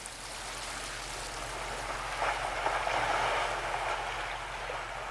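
Rushing water, a steady hiss that swells about two seconds in and eases off near the end.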